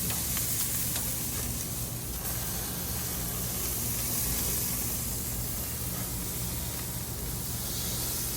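Pork chops sizzling on a hot grill, a steady hiss with a few faint crackles.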